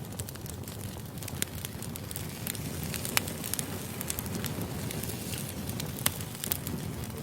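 Wood fire burning steadily with a low rumble, and sharp crackles and pops from the burning logs at irregular moments, the loudest about three seconds in and again about six seconds in.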